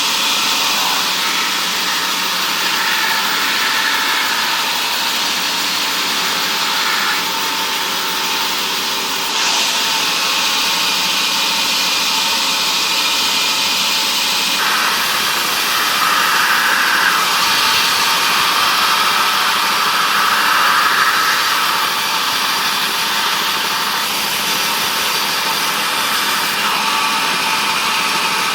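Woodworking machinery in a timber mill running continuously: a loud, high-pitched whir of saws or power tools at work. The sound changes abruptly a few times.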